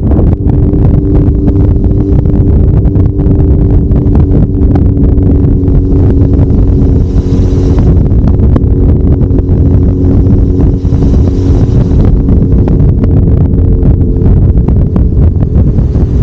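Kawasaki Zephyr 750's air-cooled inline-four engine running at a steady cruising pace on the road, with heavy wind buffeting on the camera's microphone.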